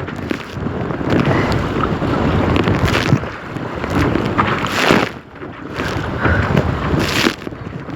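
Wind buffeting the microphone over choppy water slapping around a kayak, with a paddle splashing into the water about every two seconds as the kayak is paddled against the wind.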